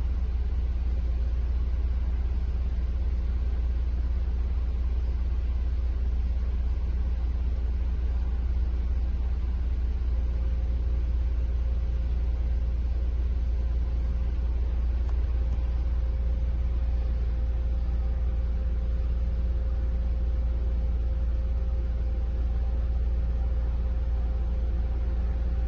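Audi TT's engine idling steadily with a low rumble as it warms up after a cold start. A faint steady whine becomes clearer about ten seconds in.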